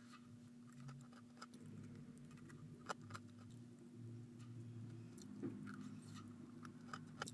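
Faint chewing of a person eating a financier cookie, with scattered small clicks and crunches, over a low steady hum.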